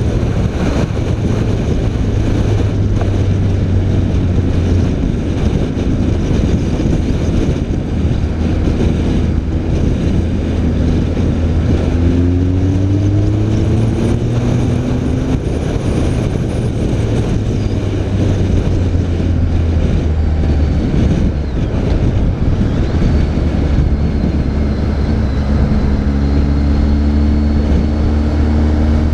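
BMW K1300 R's inline-four engine running while the motorcycle is ridden, with wind rush on the microphone. The engine note climbs a couple of times about halfway through.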